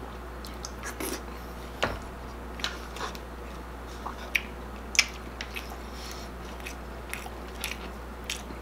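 Close-miked chewing of a mouthful of mung bean stew with crunchy pork crackling, with sharp crunches every second or so, the loudest about five seconds in.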